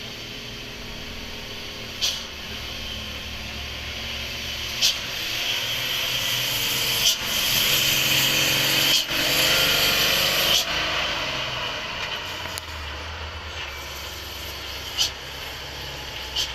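Overloaded dump truck creeping down a steep grade: the engine runs low underneath while the brakes hiss and squeal. The brakes are loudest for a few seconds in the middle, and a few short sharp clicks come through.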